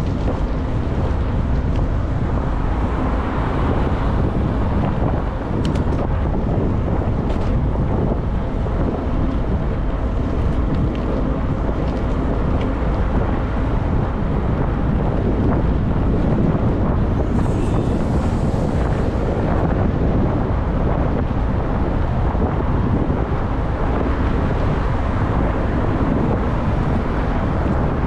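Steady wind buffeting the microphone of a camera riding along on a moving e-bike, with a brief higher hiss about two-thirds of the way through.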